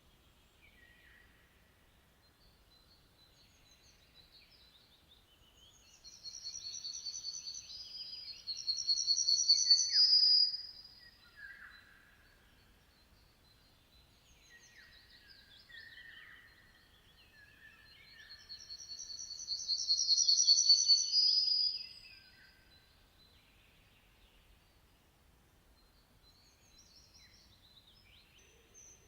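Wild birds singing and chirping, with two loud song phrases that build over a few seconds, the first ending about ten seconds in and the second around two-thirds of the way through, and softer scattered chirps between them.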